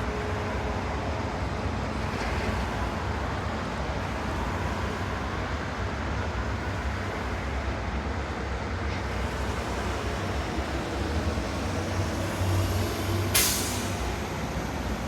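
Distant city traffic rumbling steadily, with one short, sharp hiss near the end from a heavy vehicle's air brake releasing.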